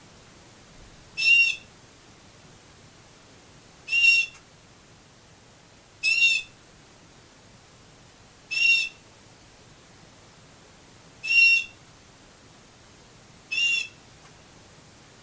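Domestic canary giving a short, clear whistled call note six times, about one every two and a half seconds.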